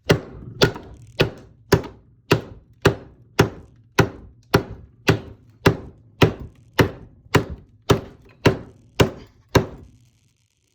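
A hand-forged chopper knife chopping into wood: about eighteen even, sharp blows, nearly two a second, that stop about a second before the end.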